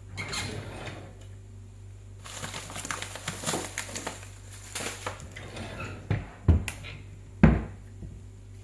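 Kitchen food-preparation handling sounds: a scrape, then a run of small clicks and rustles of utensils and dishes, ending in three dull knocks, the last the loudest, over a steady low hum.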